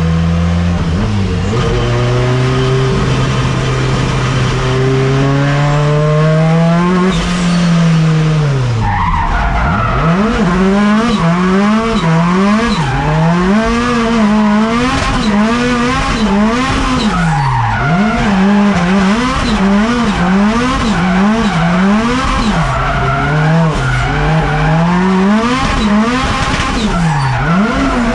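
Drift car engine revving: held steady at first, climbing and then dropping away sharply about nine seconds in, then rising and falling rapidly again and again as the throttle is worked, with tyre squeal over it.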